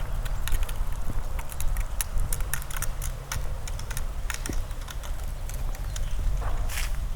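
Footsteps on a walk with many crisp, irregular crackles and ticks underfoot, over a steady low rumble.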